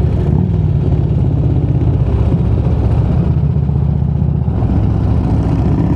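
Motorcycle engine running steadily while riding along, a low, even rumble with a fast firing pulse.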